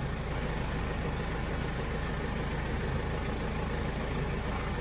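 TYM T574 compact tractor's diesel engine idling steadily.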